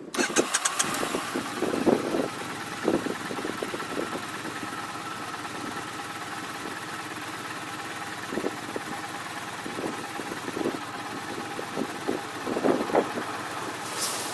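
A vehicle engine cuts in abruptly with a rapid clatter, then idles steadily, with scattered low knocks and thumps over it.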